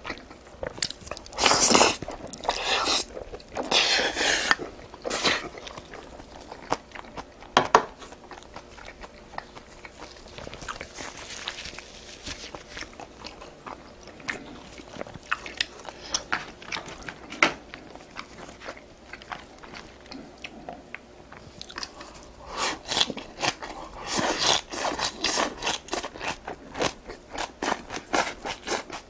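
A person chewing and biting food close to the microphone, mouth sounds in irregular bursts: louder spells of crunching in the first few seconds and a quick run of clicking chews near the end.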